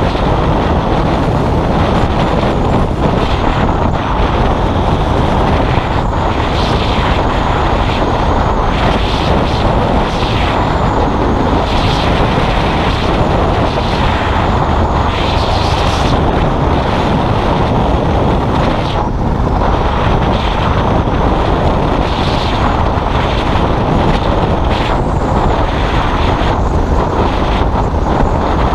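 Motorcycle engine running while riding, under a steady rush of wind on the microphone.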